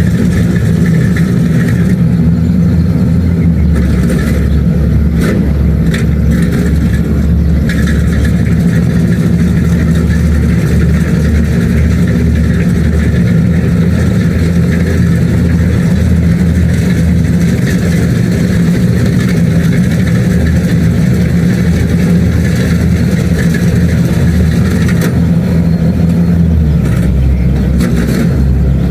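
Kubota DC-70 Plus combine harvester running steadily, its diesel engine and machinery droning loudly; the deep note changes about three and a half seconds in and again near the end.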